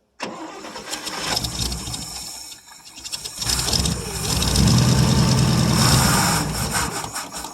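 1959 International B120 pickup engine cranked by the starter, catching and running for a few seconds, then dying away near the end. It runs only on the gas poured into the carburetor: the owner guesses a stuck float needle, a fuel pump that isn't pulling, or a plugged tank.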